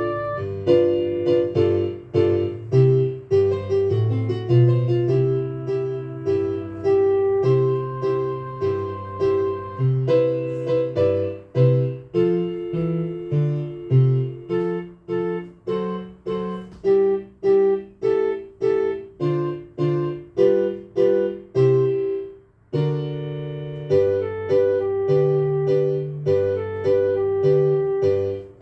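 Piano playing a bouncy foxtrot in detached, evenly paced notes, low bass notes alternating with chords. It stops for a moment about three-quarters of the way through, then picks up again.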